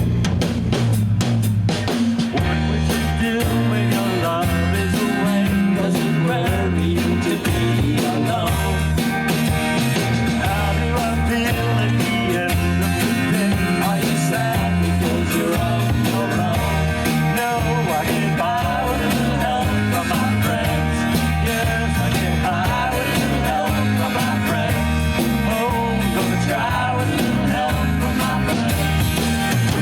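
A rock band playing a song with electric guitar, bass and drums.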